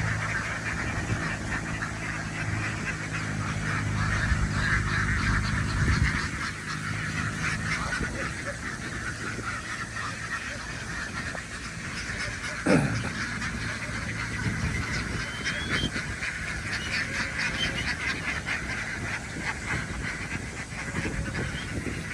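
A large flock of domestic ducks quacking and honking in a dense, continuous chatter. A low steady hum sits under it for the first six seconds or so, then fades. About halfway through, one brief loud sound glides down in pitch.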